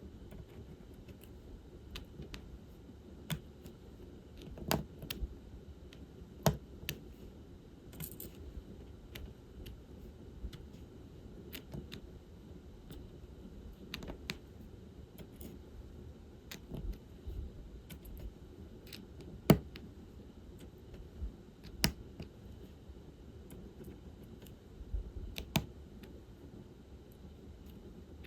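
Diamond painting work: a drill pen tapping small resin drills onto the adhesive canvas and picking them from the tray, making irregular small plastic clicks and taps, a few of them louder.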